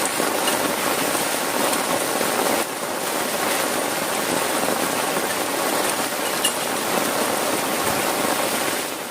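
Heavy rain falling, a steady dense hiss, dipping slightly in level about two and a half seconds in.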